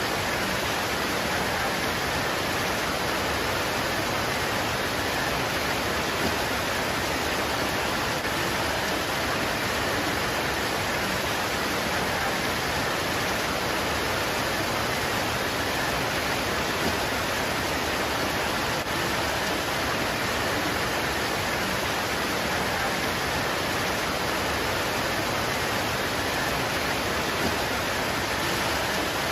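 Steady heavy rain pouring onto leaves, an even unbroken hiss.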